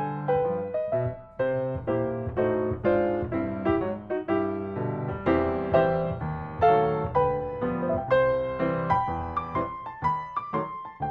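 Solo piano background music: a gentle run of single notes and chords, each note struck and left to fade.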